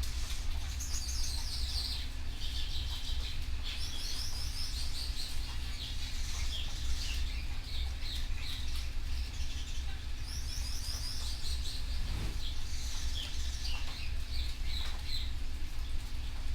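Canary singing: quick rolling trills and runs of repeated chirps, coming in phrases with short gaps, over a steady low hum.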